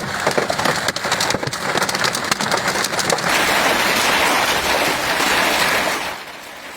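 Hail and heavy rain pelting hard surfaces. For about the first three seconds there is a dense clatter of individual stone impacts; after that it is a steady, loud rain hiss, which drops away about six seconds in.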